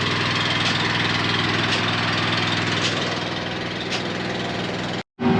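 A large engine running steadily at an even pitch, with faint clicks about once a second over it.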